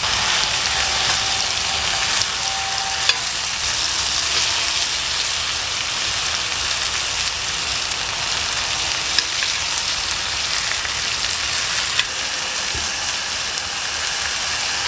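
Sirloin steak sizzling steadily as it cooks over a wood fire, with a few sharp pops.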